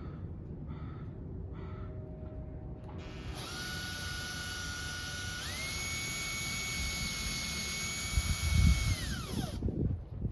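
Electric drill with a small bit, drilling out a hole in a wooden boat hull: the motor starts a few seconds in, steps up to a higher whine about two seconds later, then winds down near the end. Low thumps come just as it stops.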